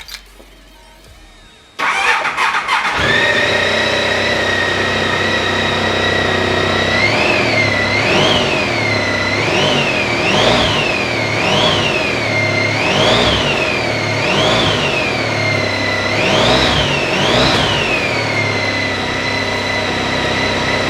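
A 2004 Honda Pan-European 1300's V4 engine started on the electric starter. It catches about two seconds in and settles to a steady idle, is blipped up and down about nine times in quick succession, then drops back to idle.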